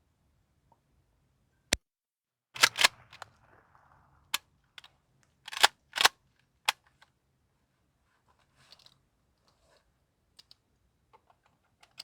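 20-gauge shotgun fired several times, sharp blasts over about five seconds, some in close pairs. After them come only small clicks and handling sounds.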